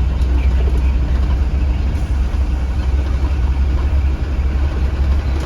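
The engine of a 2015 Blue Bird Vision school bus running with a steady low drone, heard from inside the bus.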